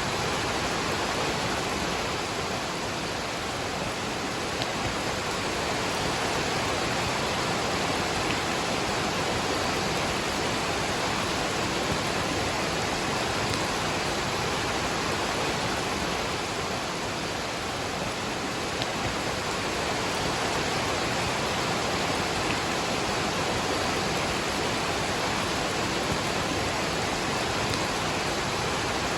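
Steady rush of a waterfall with rain falling, an unbroken hiss of water with no changes.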